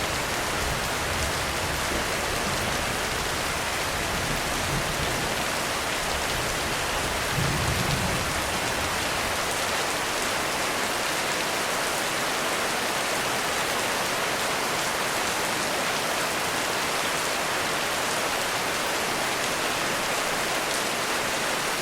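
Heavy rain drumming steadily on a roof, with a low rumble of distant thunder that swells briefly and dies away about nine seconds in.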